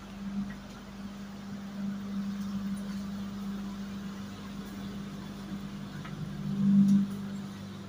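Steady low hum inside a passenger train coach, the running and onboard equipment noise of the carriage, swelling louder briefly near the end.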